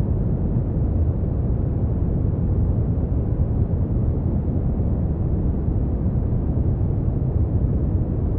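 Brown noise: a steady, deep rushing hiss, strongest in the bass and fading toward the treble, without change or events.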